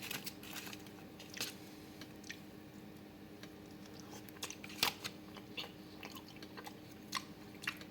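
A person chewing a bite of air-fried frozen pepperoni pizza, with irregular small crunches from the crust, over a faint steady hum.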